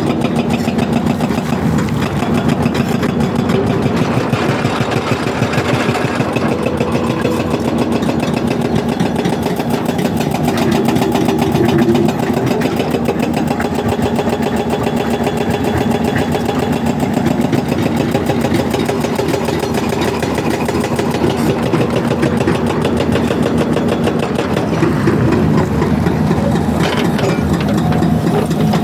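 Excavator's diesel engine running steadily under light load while the bucket is worked, with a rapid even firing beat and a hum whose pitch shifts a little now and then.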